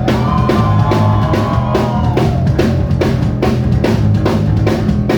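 Live rock band playing the instrumental opening of a song: a drum kit keeps a fast, steady beat over bass and guitar, with a held high note in the first two seconds.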